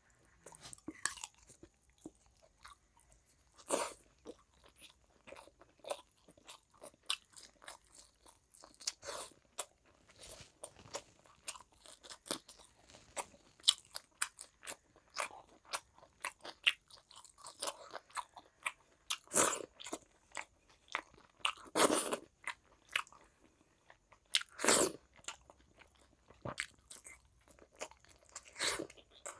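Close-miked eating of rice and curry by hand: chewing and mouth smacking as a run of short, irregular clicks, with a few louder bites scattered through.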